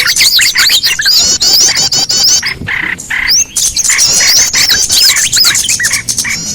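Bird-lure recording of small songbirds calling: a dense chorus of rapid, high chirps and twittering notes, with a brief lull about two and a half seconds in.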